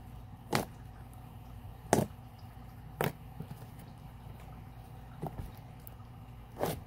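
Sticky slime being mixed and squeezed by hand, giving short wet pops and clicks about five times, a second or two apart.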